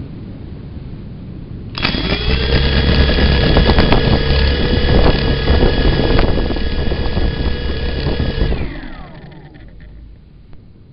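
A motor starts abruptly, quickly spins up to a steady whine and runs for about seven seconds, then winds down with falling pitch and stops.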